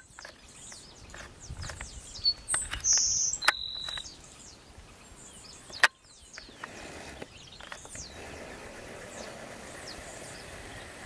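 Birds calling in the open: many quick, high, falling chirps, with two brief steady high whistles about two and a half to four seconds in, and two sharp clicks.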